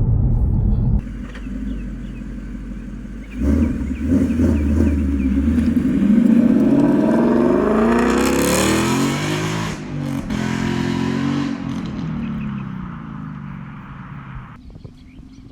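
2017 Ford Mustang GT's 5.0-litre V8 accelerating hard, its engine and exhaust note rising steeply after the throttle opens a few seconds in. The note breaks briefly about ten seconds in at a gear change, then pulls on and eases off near the end.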